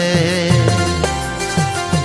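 Hindi film song music between sung lines: the singer's wavering held note fades out in the first half second, then the accompaniment plays on with steady melody tones and deep bass notes that slide down in pitch.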